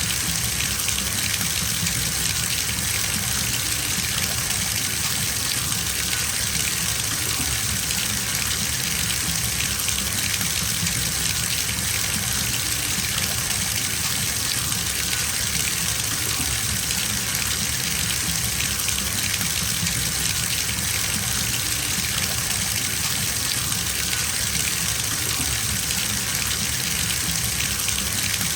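Water running steadily from a bathtub tap into the tub as it fills, a constant even gush.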